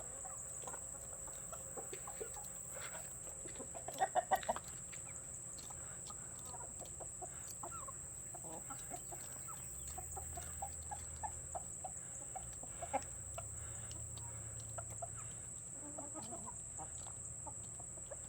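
Backyard hens clucking softly as they go after thrown treats, with a quick run of louder clucks about four seconds in and scattered short clucks after.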